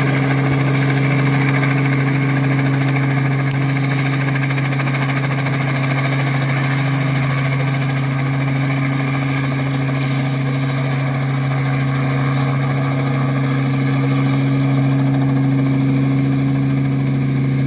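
Helicopter flying low over cherry trees, a loud steady drone with a fine rapid beat. Its rotor wash is blowing rain water off the cherries to keep them from splitting.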